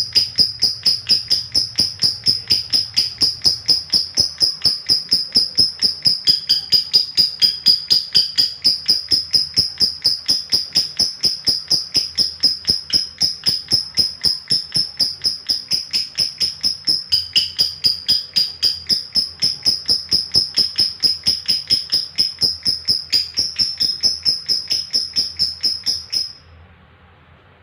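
Lovebird giving a long 'ngekek' chatter: a rapid, high-pitched trill of repeated notes, several a second, kept up without a break for over twenty-five seconds. It stops abruptly near the end.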